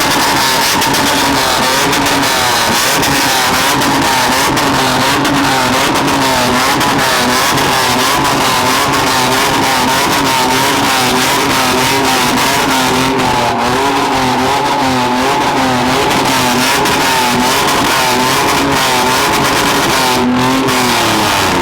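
Engine revving hard through a loud exhaust, held at high revs with the pitch rising and falling over and over.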